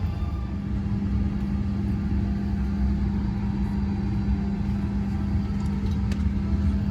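Steady low machine rumble with a constant low hum, unchanging throughout.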